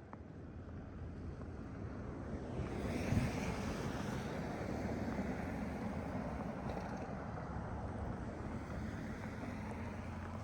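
A vehicle passing on a snowy, slushy street: its tyre hiss swells about two and a half seconds in, peaks and slowly fades. A low wind rumble on the microphone runs underneath.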